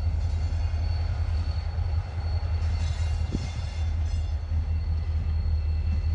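Freight train hauled by diesel locomotives rolling past: a steady low rumble, with a faint steady high whine over it.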